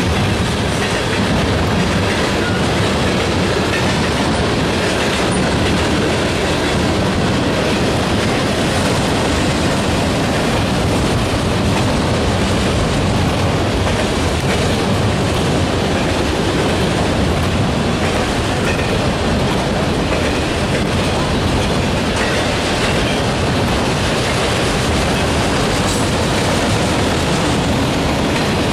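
Freight cars of a Norfolk Southern manifest train rolling past close by: a loud, steady rush of steel wheels on rail.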